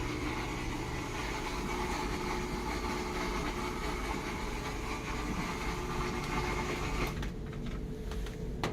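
Steady mechanical hum with faint steady tones; the higher part of the hum drops away about seven seconds in, and there is a click near the end.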